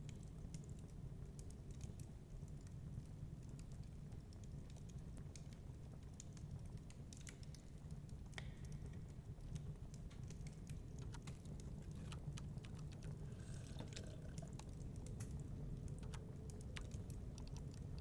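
Crackling wood fire: irregular sharp pops and snaps scattered over a steady low rumble.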